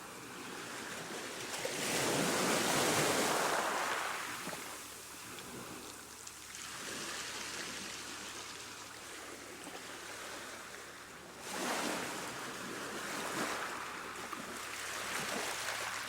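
Ocean waves breaking and washing on a shore. Each wave swells up to a hissing crash and then draws back, with the biggest surge about two seconds in and another sharp one near the three-quarter mark.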